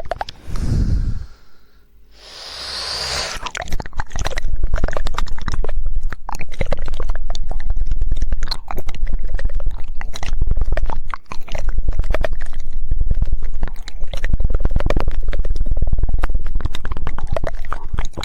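Close-miked ASMR mouth sounds: after a couple of breathy, airy noises in the first few seconds, a fast, dense, unbroken run of wet tongue clicks and flicks, in the rapid 'woodpecker' tongue-clicking style.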